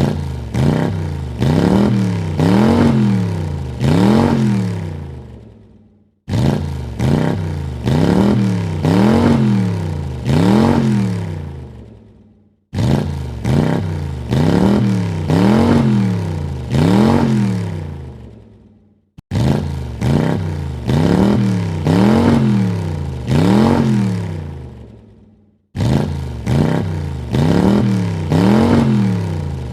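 Car engine revved in four quick blips, each rising and falling in pitch, then dying away; the same rev sequence repeats five times with brief gaps between.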